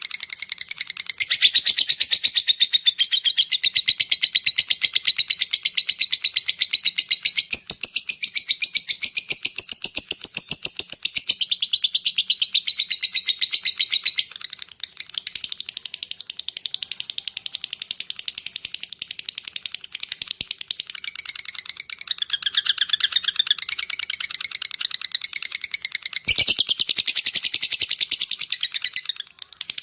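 Lovebird chattering in one long, unbroken run of rapid, shrill, ticking notes (the long 'ngetik'/'ngekek panjang' chatter), with a brief dip about halfway through.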